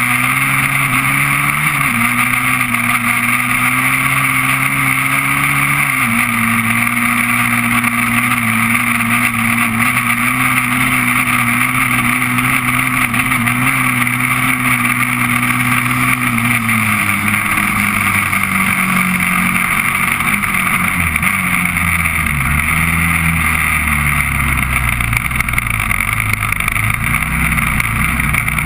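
Honda TRX400EX quad's single-cylinder four-stroke engine running at steady revs under way. About two-thirds of the way through the revs drop, then rise and fall at a lower pitch.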